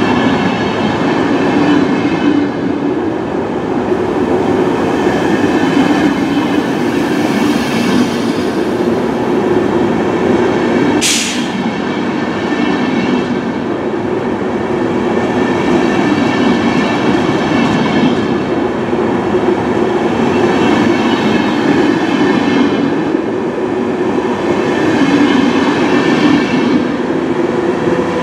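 Double-deck InterCity passenger coaches rolling past close by: a steady rumble and rattle of steel wheels on rail, swelling and easing slightly as each car goes by. A brief, sharp high-pitched burst sounds about eleven seconds in.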